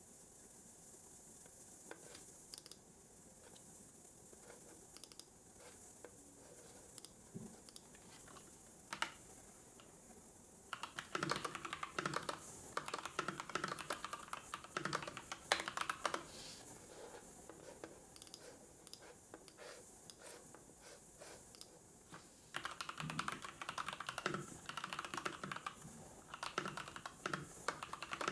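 Computer keyboard typing in quick runs of key clicks. Only scattered single clicks come in the first third, then two dense stretches of typing follow. A faint steady hiss lies under it all.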